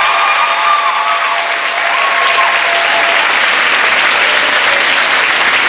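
Audience applauding steadily after a name is announced.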